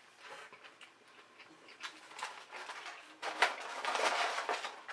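Close-up chewing of a McDonald's Grand Mac burger: soft, wet mouth sounds and small clicks, louder and busier for about a second and a half near the end.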